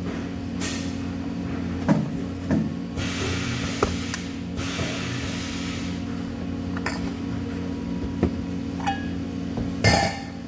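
Steady workshop machinery hum with scattered metal clinks and knocks, and a short burst of hiss about three seconds in.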